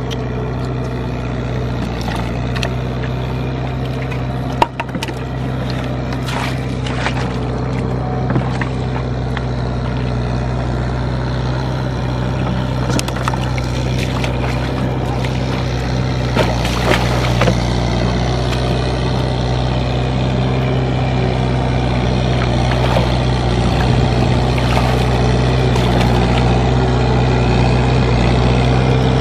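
Tractor engine running steadily, growing slowly louder, with a few scattered short clicks and knocks.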